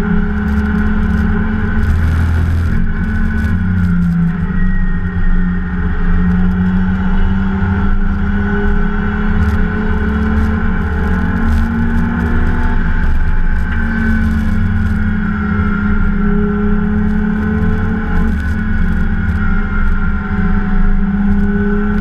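Race car's straight-six engine at racing revs, heard from inside the cabin, its note stepping up and down several times as it pulls through the gears.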